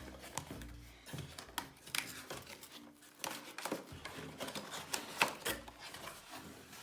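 Hands handling cardboard and plastic product packaging: irregular rustles, crinkles and small clicks, with a sharper click about five seconds in.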